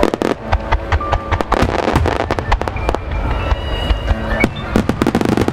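Fireworks shells bursting in rapid succession, a dense run of sharp cracks and bangs, with music playing underneath.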